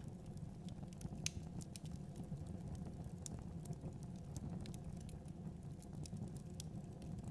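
Fireplace fire crackling: scattered sharp pops and snaps over a steady low rumble of the flames, with one louder pop about a second in.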